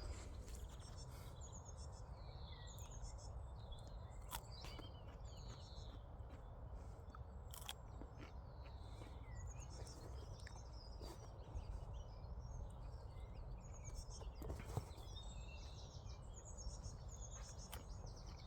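Faint outdoor ambience: small birds chirping on and off over a steady low rumble, with a few brief clicks.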